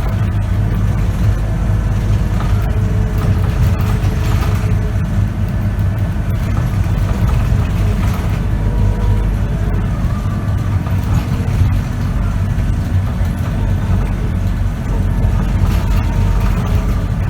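Scania K94UB bus engine and ZF automatic gearbox running steadily as the bus drives, heard from inside the bus: a constant low rumble with faint steady whining tones above it.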